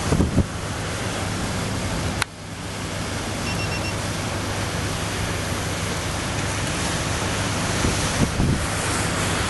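Sea waves surging and breaking, a steady loud rush of surf, with wind buffeting the microphone in gusts near the start and again near the end. A sharp click and a brief dip in level come a little over two seconds in.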